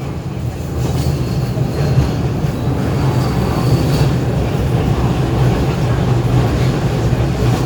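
Docklands Light Railway train running, heard from inside a carriage: a steady rumble of wheels on rails that grows louder about a second in, with a faint thin squeal from the wheels for a few seconds.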